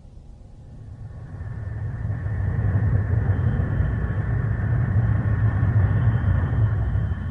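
Deep engine rumble of a flying craft, a cartoon sound effect. It swells up over the first couple of seconds, holds steady and loud, and eases off near the end.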